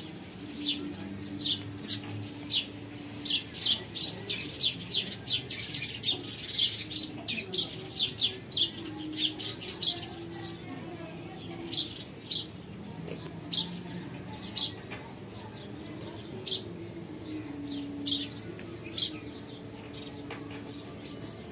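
Small birds chirping, short sharp chirps coming in quick runs, with a fainter low, drawn-out tone wavering underneath.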